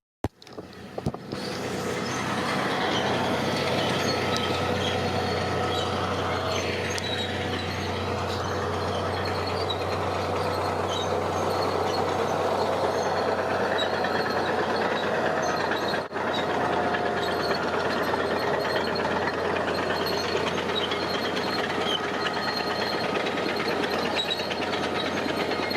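Heavy diesel construction machinery running steadily under load, with a constant low engine hum and one brief dip in pitch about a third of the way through.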